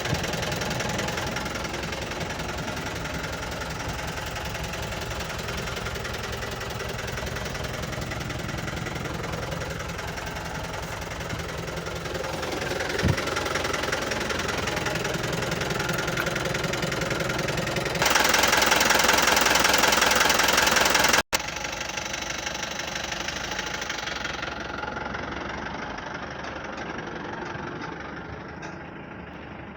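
Tata SFC407 truck's diesel engine idling steadily with a knocking rhythm. About eighteen seconds in, a louder rushing noise lasts about three seconds and then cuts off abruptly, after which the idle carries on and grows a little fainter near the end.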